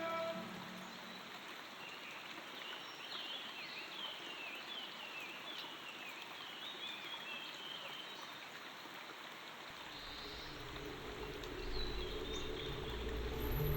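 Nature-sound ambience of running water with bird chirps, part of a relaxation music track. Soft, sustained low music notes fade in about ten seconds in.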